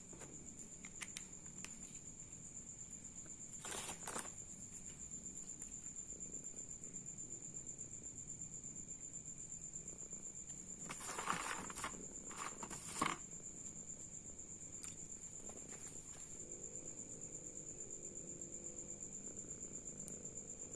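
Insects trilling, a steady high-pitched pulsing note that runs on throughout. Short rustling noises come about 4 seconds in and again around 11 to 13 seconds.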